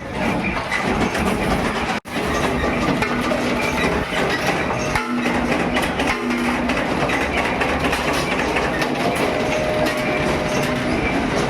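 Metal-working machinery running with a steady, dense clatter, with a brief dropout about two seconds in.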